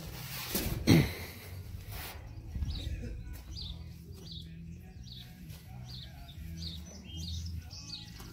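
A bird chirping over and over, short high chirps about twice a second, over a low steady hum. About a second in, a thump is the loudest sound.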